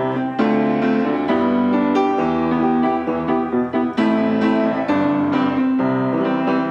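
Instrumental piano music: a gentle tune of struck notes over sustained chords.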